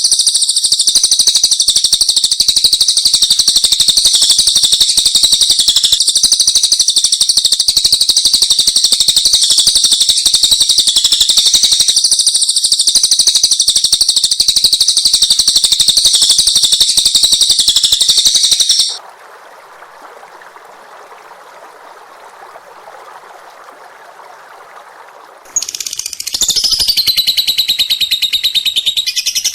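A songbird singing a loud, dense, unbroken high-pitched song of rapid trills for about nineteen seconds. It then gives way to a much quieter, lower chatter for a few seconds before the high trilling song resumes, opening with a falling note.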